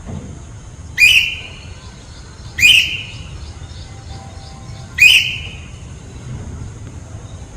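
A white parrot giving three loud, short calls a second or two apart, each opening with a sharp upward sweep and then trailing off.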